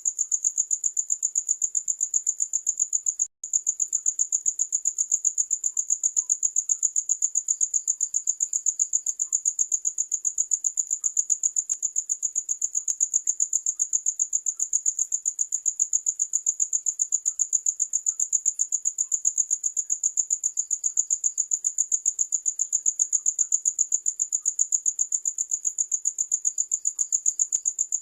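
Crickets chirping: a steady, high-pitched trill of rapid, even pulses, broken for an instant about three seconds in.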